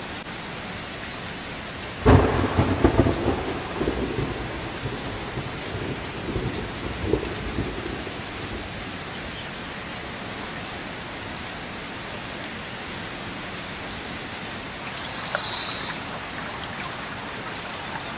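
Steady rain falling, with a sharp thunderclap about two seconds in that rumbles away over the next several seconds.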